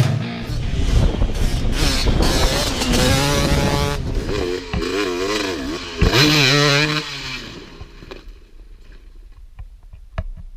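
Dirt bike engine revving up and down, with a loud burst of throttle about six seconds in. The engine sound dies away after about eight seconds, leaving only faint clicks.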